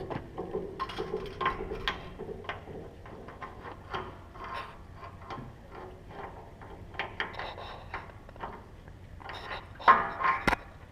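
Scattered clinks and knocks of hand tools and metal parts being handled, with a louder clatter about ten seconds in.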